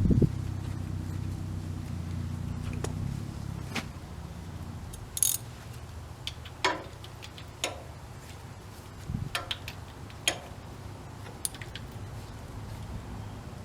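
Scattered light metal clicks and clinks of a drain plug and hand tools being handled at a tractor's oil pan, one bright jingle about five seconds in. A low rumble fades out over the first few seconds.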